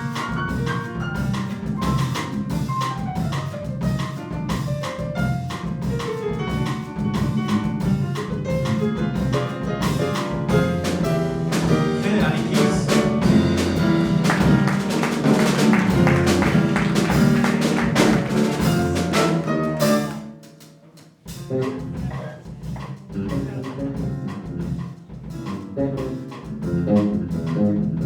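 Jazz band playing an instrumental passage, with a drum kit keeping time. The band builds to a loud peak, breaks off suddenly about twenty seconds in, then comes back in quieter.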